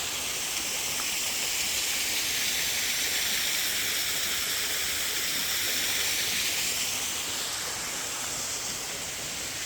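Small waterfall rushing, a steady hiss of falling water that swells slightly in the middle and eases a little toward the end.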